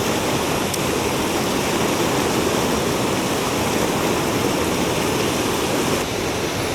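Rushing water of a mountain stream, a steady loud roar of flowing water close by.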